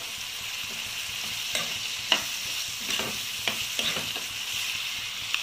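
Chopped onions and tomatoes sizzling in hot oil in a frying pan, stirred with a metal spoon that scrapes and taps against the pan several times over a steady sizzle.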